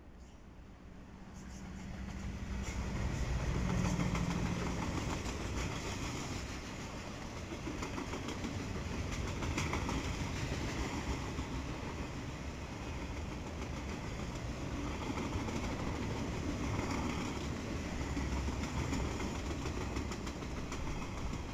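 Diesel freight locomotive approaching and passing, its engine loudest about four seconds in. Then comes the steady rumble and clatter of a long string of empty flatcars rolling by.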